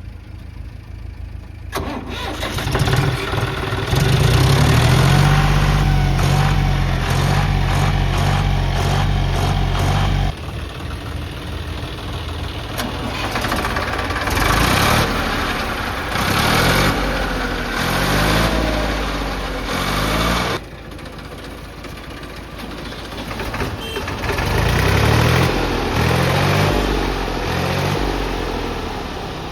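Heavy diesel engine working, its revs rising and falling in repeated surges. It drops off abruptly about ten and twenty seconds in, then picks up again.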